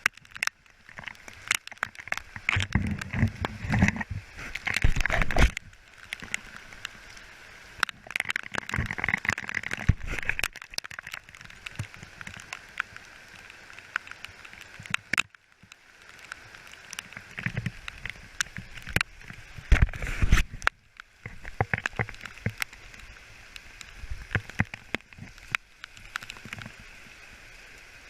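Mountain bike riding over a rough dirt trail, with tyres crunching and the bike rattling over bumps, and gusts of wind rumbling on the microphone.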